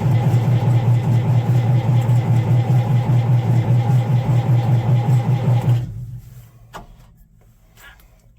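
Allis-Chalmers 200's six-cylinder diesel being cranked over by its starter in the cold, with a steady rhythmic chug of compression strokes but no firing. The cranking stops about six seconds in, followed by a few faint clicks: a failed cold start.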